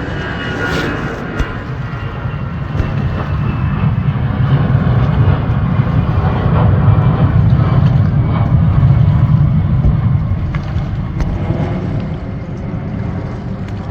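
Jet airplane passing low overhead: a low rumble that swells to its loudest past the middle and then fades.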